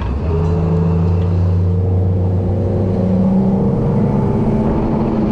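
Boat motor running steadily, a low hum with a few shifting pitch lines.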